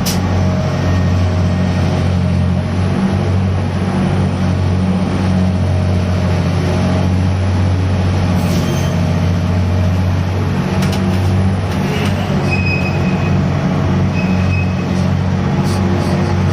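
Heavy engine on a gut ship (grab-crane sand carrier) running steadily during grab-bucket cargo handling, with a few sharp knocks from the machinery.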